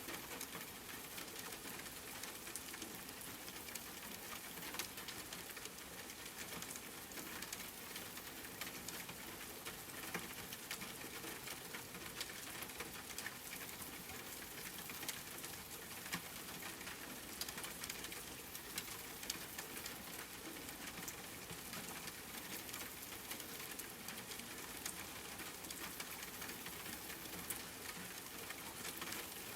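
Steady rain falling and pattering on a surface, with many small drops ticking throughout.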